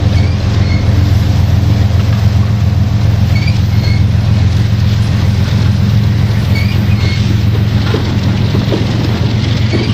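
Steady, loud low drone of a train's diesel locomotive engine running, with a few short faint high chirps now and then.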